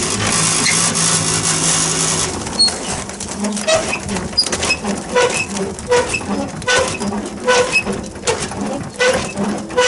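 A steady, noisy running machine with a low hum cuts off about two seconds in. After that, a rhythmic mechanical squeak and knock repeats a little more than once a second.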